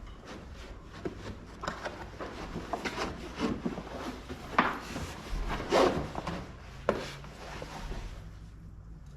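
Heavy canvas top being handled and worked into its mounting channel: irregular rustling and rubbing with scattered knocks, the loudest about four and a half and six seconds in.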